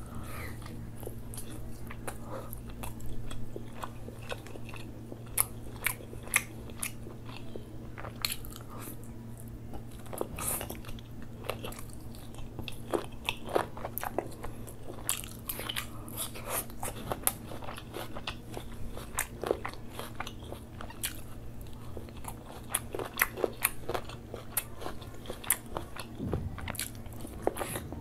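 Close-miked eating: biting and chewing grilled chicken, with frequent irregular wet mouth clicks and crunches. A steady low hum runs underneath.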